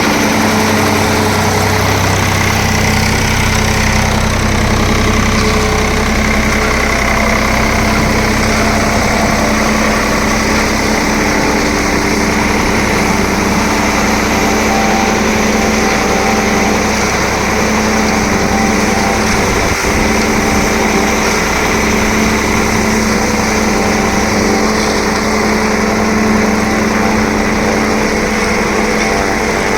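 Tractor engine running steadily, driving a silage packing machine, with the machine's mechanical noise over an even engine hum.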